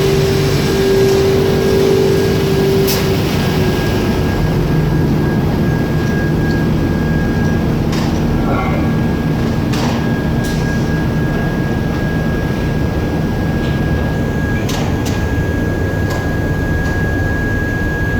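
Foundry machinery running steadily in a cast-iron casting shop: a loud, even mechanical drone with a thin high whine and lower hums, and a few short metallic clicks and knocks.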